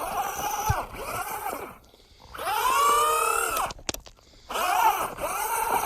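Traxxas Rustler 2WD RC truck's electric motor whining as the throttle is pulsed, each burst rising and then falling in pitch. There are two brief pauses off the throttle, about two and four seconds in.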